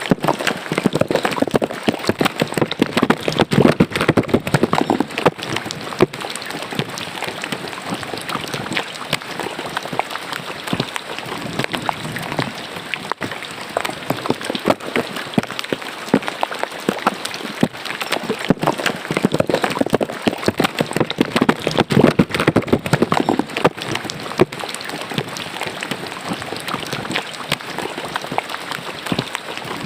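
Rain falling into an open drain: a dense, steady patter of countless drops, swelling slightly a few seconds in and again about two-thirds of the way through.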